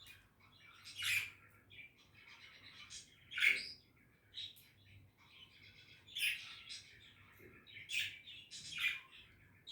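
Budgerigars chirping and warbling, with short sharp calls every second or two over a quieter chatter.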